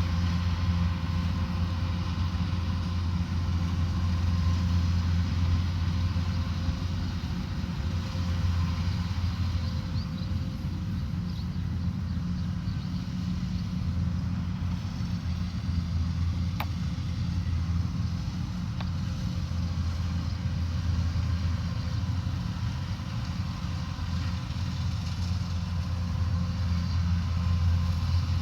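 Combine harvester running steadily, a constant low engine drone with a steady whine above it. A single sharp click sounds a little past halfway.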